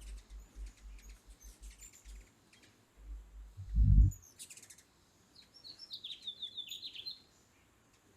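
Hummingbirds twittering in quick runs of high, thin chip notes, with the low buzzing hum of their wings close by. The wing hum swells loudest about four seconds in.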